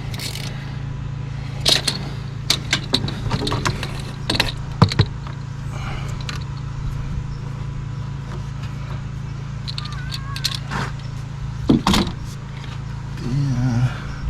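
Scattered metallic clinks and knocks of tools and parts being handled in an engine bay while the oil filter is being worked on, over a steady low hum.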